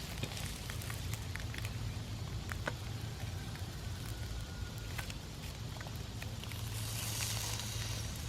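Eggs frying in a 12-inch cast iron pan over a campfire: a steady sizzle with scattered crackles and pops, and a louder hiss about seven seconds in.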